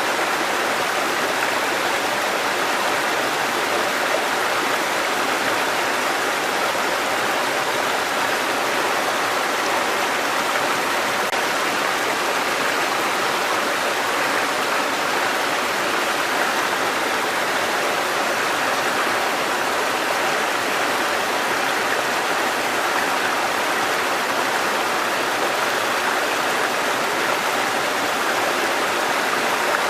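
Water cascading over rocks in a mountain stream, a steady even rush with no breaks.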